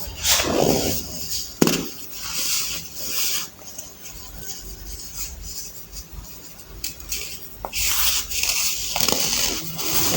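Blocks of dried baking soda crushed by hand, crunching in bursts at the start and again in the last two seconds. There is one sharp click just under two seconds in, and a quieter stretch in the middle.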